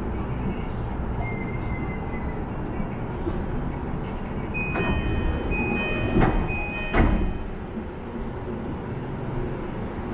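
Electric commuter train on the JR Nambu Line braking to a stop at a station, heard inside the car: a steady running rumble. About halfway through, a high broken brake squeal comes in, with two sharp jolts as the train comes to rest.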